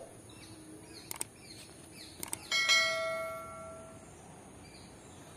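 A bell struck once, about halfway through, ringing with several tones and fading over about a second and a half. It follows a few sharp clicks, with faint bird chirps in the background.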